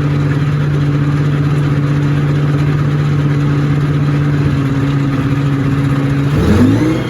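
Tank engine running loud and steady at a constant pitch; about six seconds in its pitch dips and then climbs as the engine revs up.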